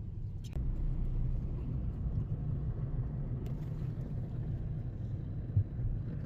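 A car driving, heard from inside the cabin: a steady low rumble of engine and tyres on the road, with a short thump near the end.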